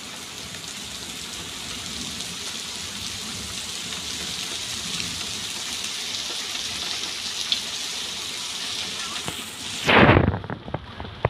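Heavy rain pouring down in a steady hiss. About ten seconds in comes one loud thump, and from then on the rain sounds suddenly muffled, with a few clicks after it.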